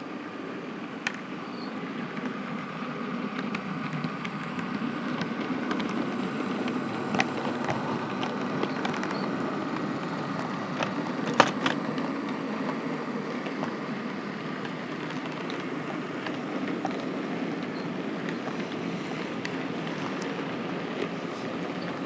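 Model train running steadily along the layout track with a continuous motor and wheel hum, and scattered sharp clicks from wheels passing over rail joints, the loudest about halfway through.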